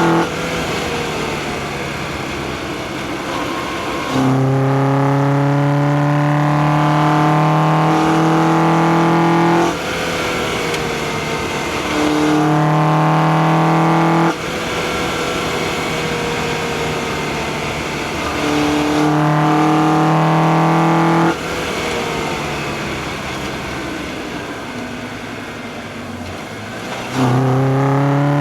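2004 Acura TSX's K24A2 2.4-litre inline-four, heard from the engine bay, pulling hard four times under acceleration with its pitch climbing. Each pull drops off suddenly into a quieter note that falls away between pulls.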